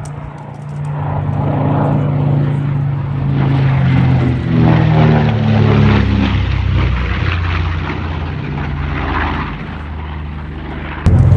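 Piston-engined propeller fighter flying past, the engine note swelling and then dropping in pitch as it passes, about four to six seconds in.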